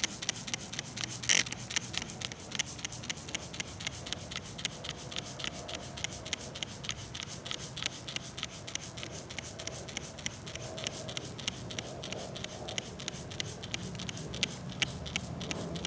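Trigger spray bottle of degreaser squirted over and over, a quick string of short hissing sprays, a few a second, with one louder spray about a second in.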